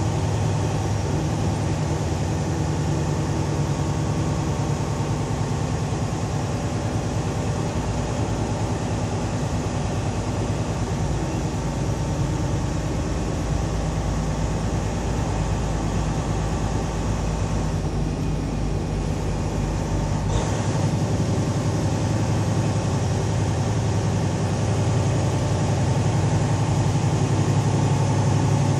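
A truck's engine running steadily, a low drone with road noise over it. The deepest rumble drops away about twenty seconds in.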